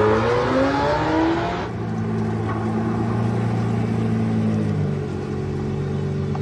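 Chevrolet Corvette C6's V8 engine revving, its pitch sweeping up and down. After an abrupt cut under two seconds in, it runs at a steady low pitch that steps down slightly about five seconds in.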